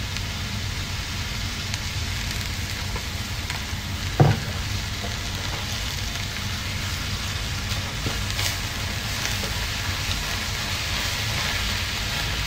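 Chopped saluyot (jute leaves) and spices frying in cooking oil in a frying pan, a steady sizzle, stirred with a spatula. A single sharp knock about four seconds in.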